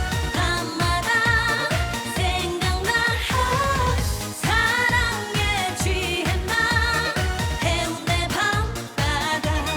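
Korean trot song: a woman singing with vibrato over a backing track with a steady drum beat.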